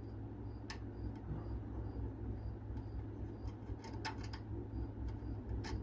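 A few sharp metallic clicks and taps as a nut and hand tools are handled, spread through a low steady hum.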